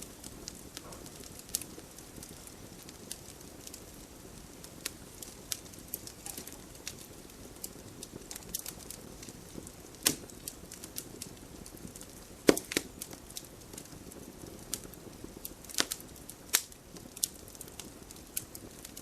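Wood fire crackling steadily over a low rush, with many small snaps and several sharper pops, the loudest about ten, twelve and sixteen seconds in.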